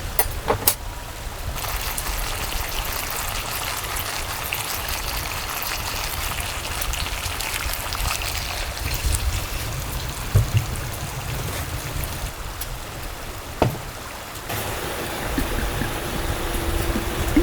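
Steady rush of running stream water, with a few sharp clicks about ten and thirteen seconds in.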